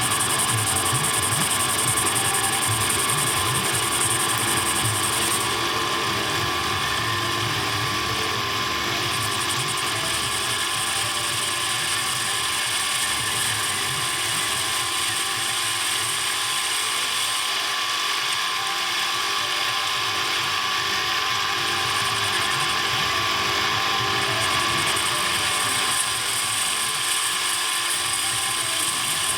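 A workshop machine running steadily for the whole stretch, with a geared, whirring mechanical noise of many fixed tones.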